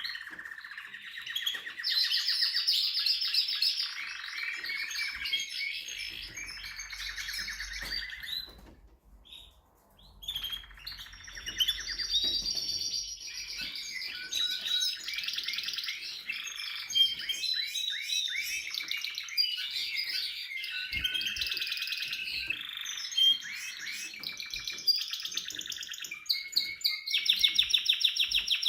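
Spanish Timbrado canary singing: long runs of fast trills and rolls, broken by a short pause about nine seconds in, with quick repeated sharp notes near the end.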